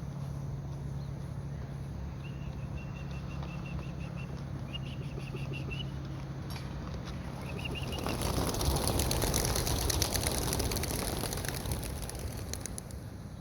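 A flock of young racing pigeons taking off together from a release basket, a loud rush of flapping wings that starts about eight seconds in and lasts about four seconds. Before it, short high chirps of a small bird over a steady low hum.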